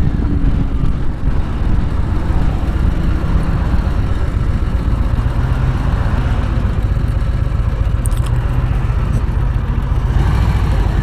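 Harley-Davidson V-twin motorcycle engine running steadily while riding, with a dense low rumble mixed with wind noise on the microphone.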